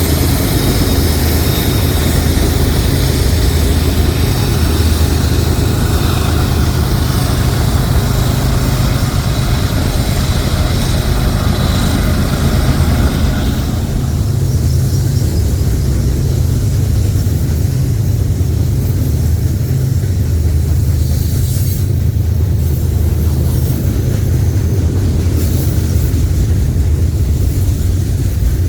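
Freight train running past with a loud, steady low rumble. A higher-pitched layer of noise fades out about halfway through, leaving the low rumble.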